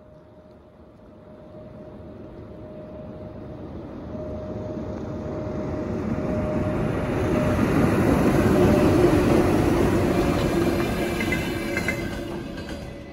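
A vehicle passing by: a rumble with a steady tone that swells over several seconds, peaks about nine seconds in, then fades.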